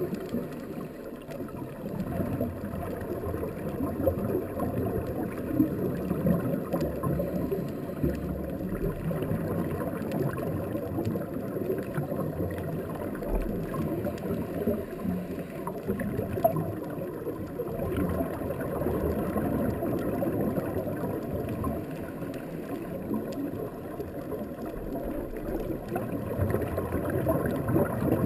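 Muffled underwater noise heard through a camera housing: a scuba diver's regulator breathing and exhaust bubbles gurgling, with a few faint clicks.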